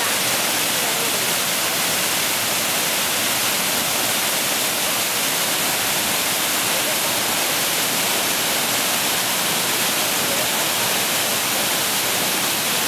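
Jion Falls' water pouring down, a steady full rush of falling water.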